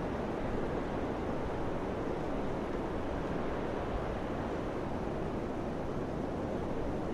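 Steady wind noise, an even rushing with no gusts or breaks.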